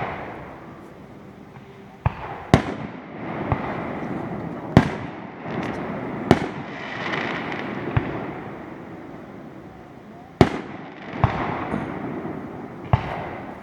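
Aerial fireworks bursting overhead: about nine sharp bangs at irregular gaps of one to two seconds, each trailing off in a rolling echo, with crackling between them.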